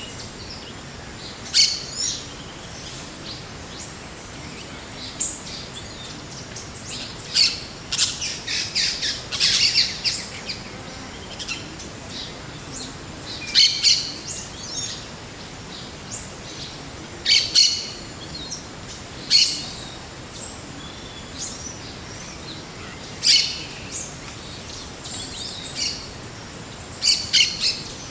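Forest birds calling: short, sharp, high chirps every few seconds, with a quick flurry of calls about a third of the way in, over a steady soft background of forest ambience.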